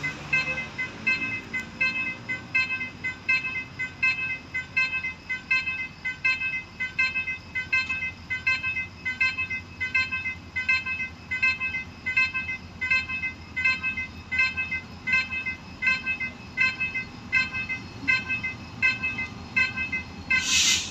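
Railway level-crossing warning bell ringing steadily with even, rapid strokes, about three every two seconds. A short, loud rush of noise comes near the end.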